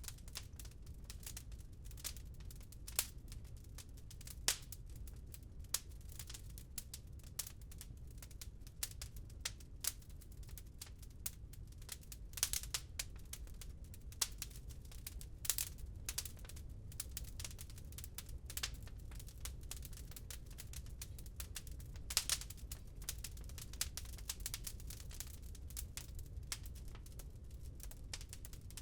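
Wood fire crackling in a fireplace: irregular snaps and pops, a few sharper ones standing out, over a steady low rumble.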